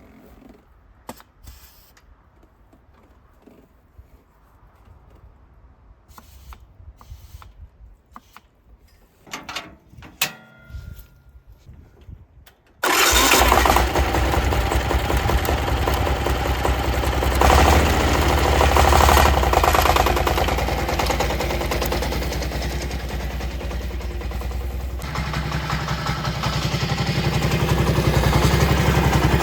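Faint scattered clicks and knocks, then about 13 seconds in an engine starts abruptly and keeps running steadily at a low pitch, its note changing a few seconds before the end.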